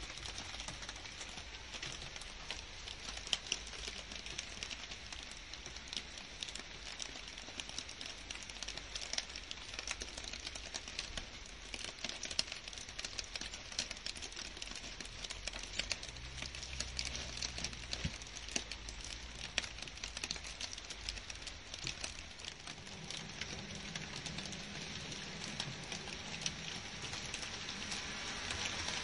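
Steady rain falling on leaves and garden plants: an even hiss with many individual drops ticking.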